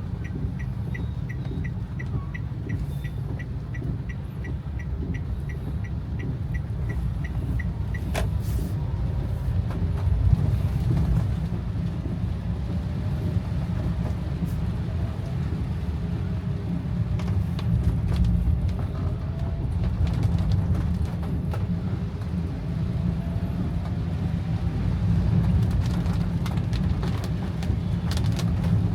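A car's engine and tyres rumble low and steadily, heard from inside the cabin. A turn signal ticks about twice a second for the first eight seconds or so and stops with a sharp click.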